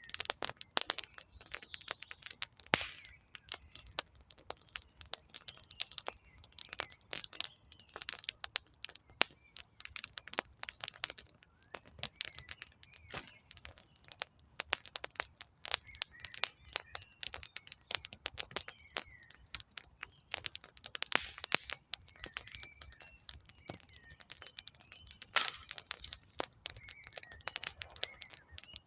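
Wood campfire crackling and popping in quick, irregular snaps, with a few louder pops. Faint, short bird chirps come and go in the background.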